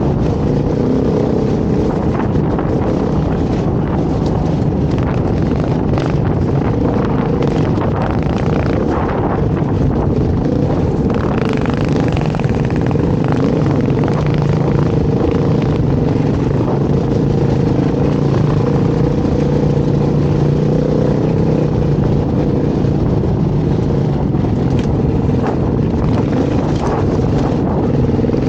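Dirt bike engine running under way at fairly steady revs, its pitch rising and falling a little, with scattered knocks and clatter.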